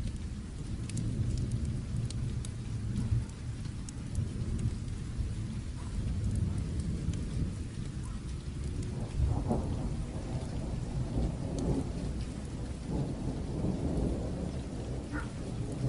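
Steady rain with low rolling thunder, the rumble swelling and growing busier in the second half, and scattered small ticks on top.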